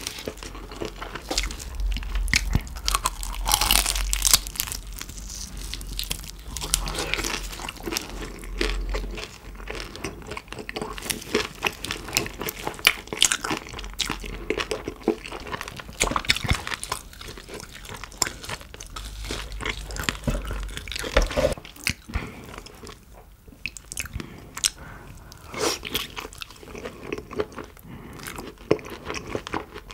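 Close-miked biting and chewing of crispy-skinned roast pork knuckle (Schweinshaxe): the crisp skin crunching under the teeth, amid dense, irregular wet chewing clicks.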